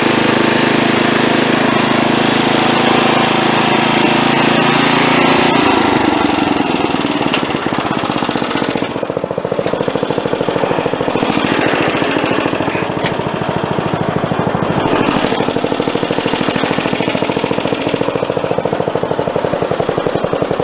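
Small engine running steadily. About six seconds in its speed drops and it settles into a slower, evenly pulsing run.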